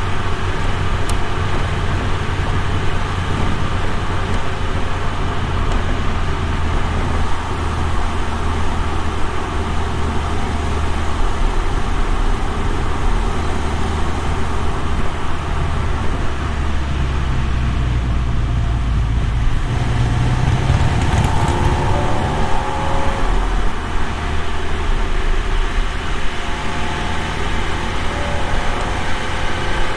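Exhaust note at the muffler outlet of a 2003 Subaru Legacy BP5 with a turbocharged EJ20 flat-four, running steadily with a deep drone; from about two-thirds of the way in, faint higher tones drift up and down in pitch. The owner judges that no abnormal noise comes out of the muffler outlet.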